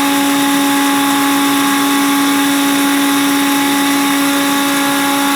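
Countertop blender motor running at a steady pitch, blending table cream and sugar.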